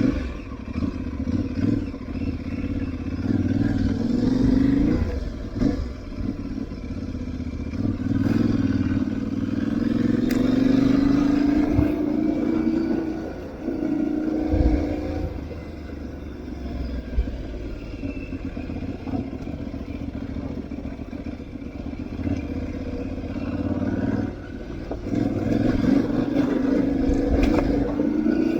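Aprilia Tuareg 660's parallel-twin engine revving up and easing off again and again as the bike is ridden off-road, with scattered knocks and rattles from the rough ground.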